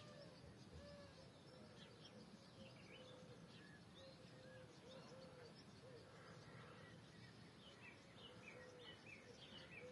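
Faint calls of several distant birds in a steady outdoor hush. A lower note repeats throughout, and high chirps are scattered over it, more of them in the second half.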